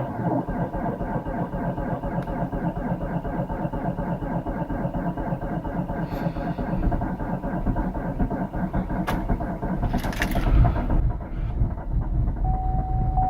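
A diesel car engine running steadily after a cold start in frost, with a fast, even rhythm. About ten seconds in there is a brief louder, hissier surge, and near the end a steady high tone starts.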